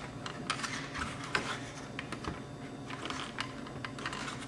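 Irregular small clicks and scrapes of hard plastic as the AV receiver's front panel is levered at and its clips are worked.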